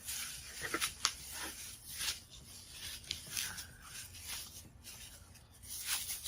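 Plastic bubble wrap crinkling and crackling with scattered sharp clicks as it is handled and rolled around an amplifier.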